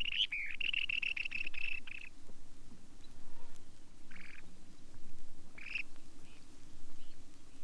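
Long-billed dowitcher calling: a fast chattering series of high notes that stops about two seconds in, followed by single calls at about four and six seconds.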